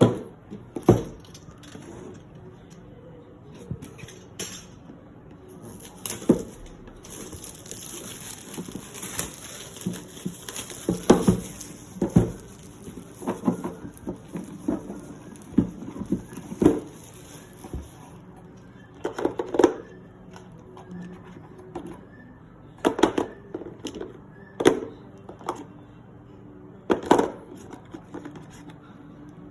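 Hard plastic parts of a hair dryer styling set being handled, with irregular clicks and knocks as pieces are picked up, set down and snapped together. A high hiss runs for about twelve seconds in the middle.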